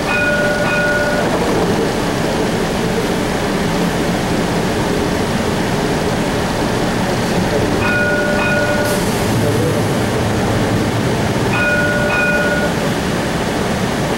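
Steady running rumble of the Cincinnati Bell Connector streetcar heard from inside the car as it travels between stops. A bell-like chime rings for about a second at the start, again about eight seconds in, and once more about four seconds later.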